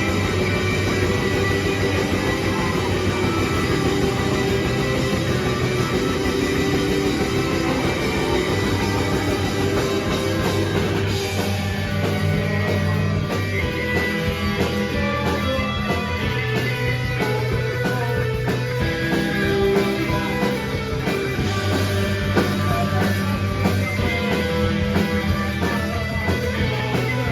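A live rock band playing loud, dense music with no singing: distorted guitars and bass holding long notes over a steady drum kit, the bass line shifting to new notes a few times.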